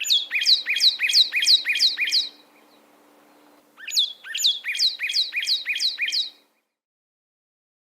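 Northern cardinal singing: two phrases of quickly repeated down-slurred whistles, about four notes a second, with a pause of about a second between them.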